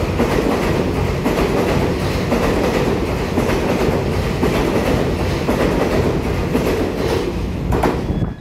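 An EMU3000 electric intercity train running past close alongside the platform: steady loud rolling noise of its wheels on the rails and its car bodies rushing by.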